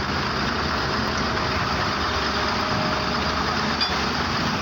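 A truck's engine running steadily, heard as an even, unbroken rush of noise.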